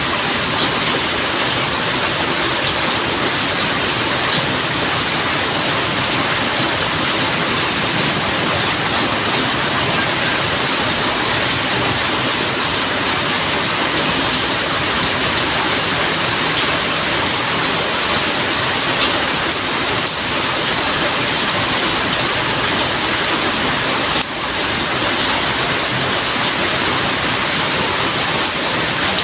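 Heavy rain falling steadily, a dense even hiss with scattered drop clicks and one sharper tick about two-thirds of the way through.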